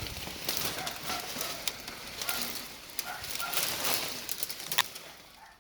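Rustling and crackling of dry brush and leaves underfoot, with scattered sharp snaps and a few faint bird chirps.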